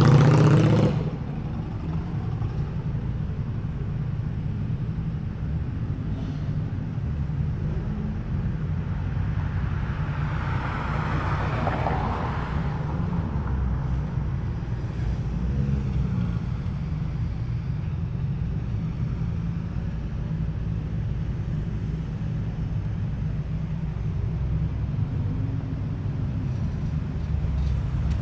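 Car engine running with a steady low rumble. A louder engine sound drops away about a second in, and a higher sound swells and fades again about ten to thirteen seconds in.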